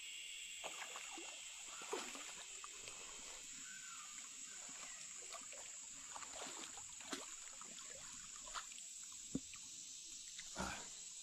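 A steady, high-pitched drone of crickets or other insects, with faint water splashing and scattered small knocks.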